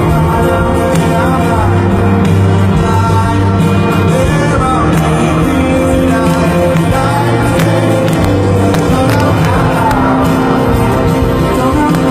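Live rock band playing with a sung melody over sustained bass and amplified instruments, a crowd faintly audible beneath.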